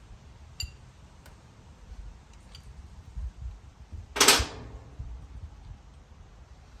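Metal parts of a truck cab shock mount being handled: a few faint light metallic clicks, then one loud metal clank with a short ring a little over four seconds in.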